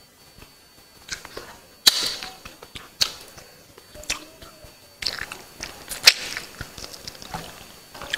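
Close-miked eating sounds: a woman chewing mouthfuls of biryani with chicken gravy, with several sharp, wet mouth smacks and clicks, the loudest about two seconds in and about six seconds in.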